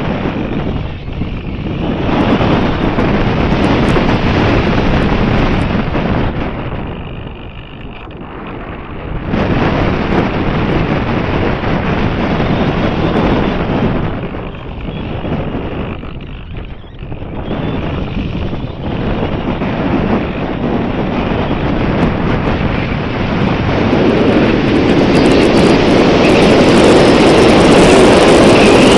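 Strong wind buffeting the microphone, rising and falling in gusts and loudest near the end.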